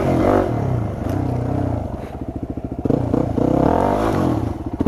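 Yamaha WR250 dirt bike engine being ridden, the revs rising and falling with the throttle. It drops to a low chugging idle about two seconds in, then revs up again.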